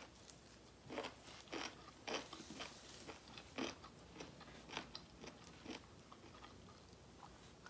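Close-up chewing and crunching of food, a crisp crunch about twice a second, about ten in all, dying away near the end.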